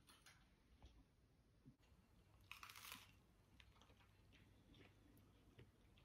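Faint sounds of biting into and chewing a toasted sourdough bagel with mashed avocado: small crunches and mouth clicks, with one louder crunch about two and a half seconds in.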